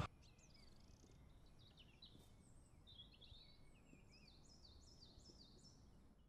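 Faint birdsong: scattered chirps and short calls, then, from about two-thirds of the way in, a run of repeated falling notes at about three a second.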